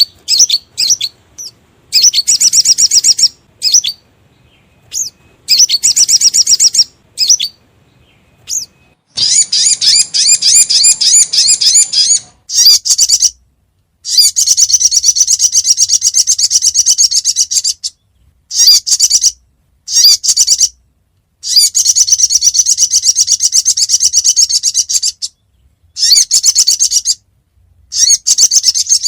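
Recorded song of the sogon (sogok ontong), played as a lure call for trapping: loud bouts of rapid, high-pitched trilling notes, each bout lasting one to four seconds, repeated with short pauses between them.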